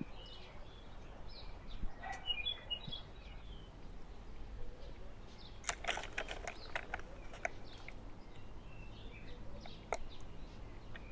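Faint bird chirps over quiet outdoor background noise, with a short run of soft clicks and rustles about six to seven seconds in.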